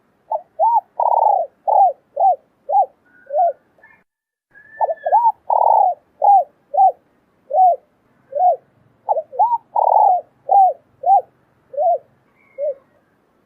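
Female spotted dove cooing in three repeated phrases. Each phrase has a couple of short notes, one long, full coo, then a run of short coos that fall slightly in pitch.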